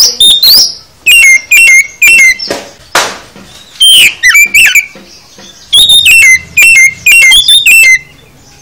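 Oriental magpie-robin (kacer) singing loudly: quick series of short, sharp whistled notes repeated in bursts, with a harsh rasping note about three seconds in. This is its varied 'full isian' song, packed with phrases copied from other birds.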